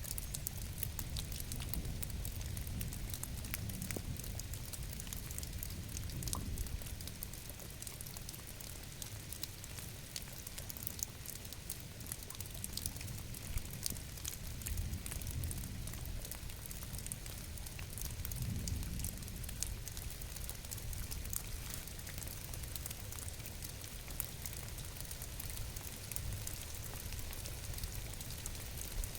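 Steady rain falling: a continuous hiss with many small drop ticks over a low rumble.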